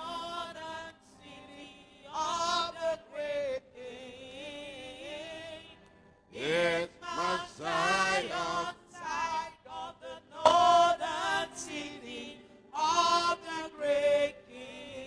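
Slow worship singing in sung phrases with wavering, drawn-out notes and short pauses between them.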